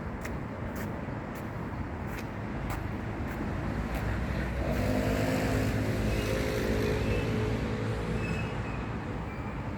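A car passing on a nearby road, growing louder about halfway through and fading near the end, over a steady outdoor background with a few faint ticks in the first few seconds.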